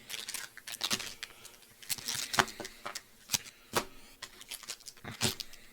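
Packaged chocolate bars being handled and set down one after another: irregular clicks and taps with some wrapper rustling.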